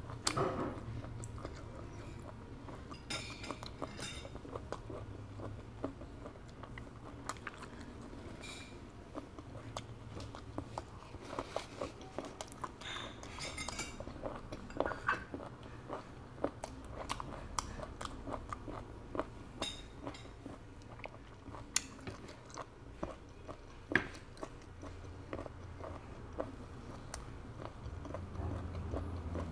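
Chewing of cooked conch meat, very chewy: a long run of faint, irregular mouth clicks and smacks, with one sharper click about four-fifths of the way through.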